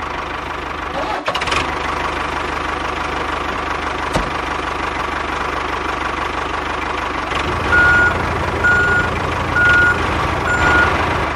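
A truck engine running steadily, its low rumble growing heavier about two-thirds of the way through, with a reversing alarm giving four short beeps about a second apart near the end.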